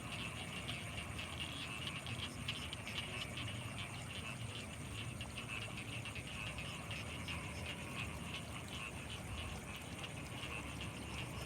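A night chorus of frogs calling in fast, continuous pulses, with a steady high-pitched whine above it and a low rumble underneath.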